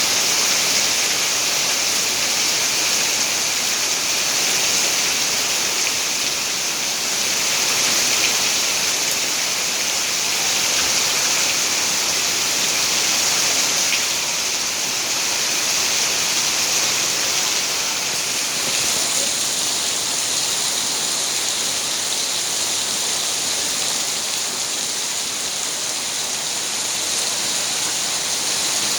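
Steady rain falling: an even, unbroken hiss of many drops, with no single drop standing out.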